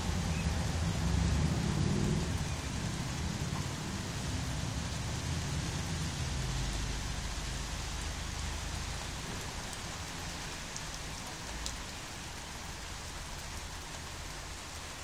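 Rain falling steadily on a concrete path in a thunderstorm. A low rumble of thunder in the first couple of seconds dies away, leaving the even hiss of the rain.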